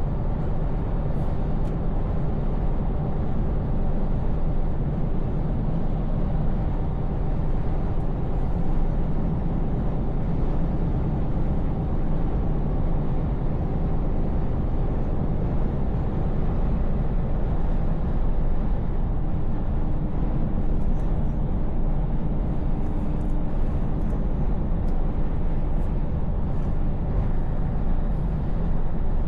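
Scania S580 truck's V8 diesel engine running steadily under way, with a low even rumble and road noise and no gear changes or sudden sounds.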